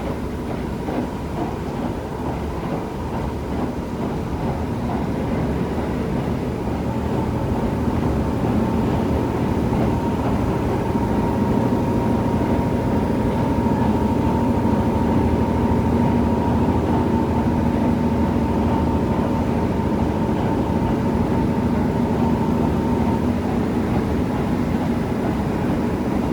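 KiHa 75 diesel railcar running on the line, heard from inside the car: a steady rumble of engine and wheels on rail. It grows louder over the first ten seconds or so, then holds with a steady whine over it.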